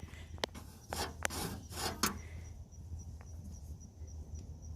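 The hoist levers of an abandoned sanitation truck being worked by hand: a few short scrapes and clicks in the first two seconds, then quieter. The levers are seized and do nothing.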